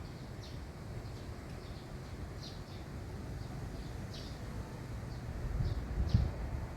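Small birds chirping repeatedly in short, high calls over a steady low rumble, which swells briefly near the end.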